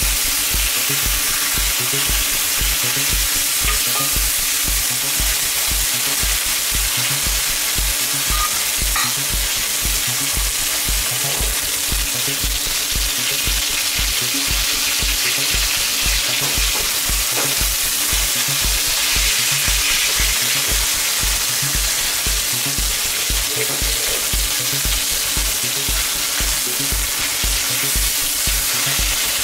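Pork chops sizzling steadily in hot oil in a wok, with metal tongs stirring and scraping now and then. A steady low beat of about two thumps a second runs underneath.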